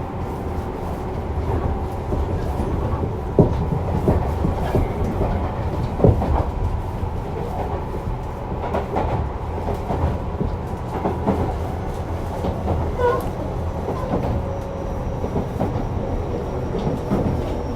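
Tobu 50050 series electric commuter train running at speed, heard from inside the car: a steady rumble of wheels on rail with occasional sharp clicks over rail joints, the strongest about three and six seconds in.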